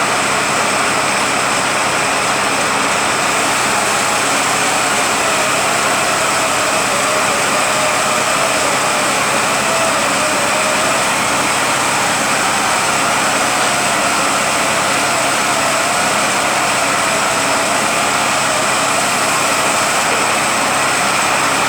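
Rebuilt Eaton Fuller RTLO-18918B 18-speed truck transmission running on a test dyno: a steady mechanical whir with a gear whine that wavers slightly in pitch.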